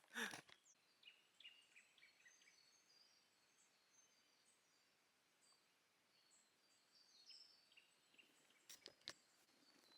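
Faint birds calling, many short high chirps scattered throughout. A brief rustle at the start and a few sharp clicks about nine seconds in.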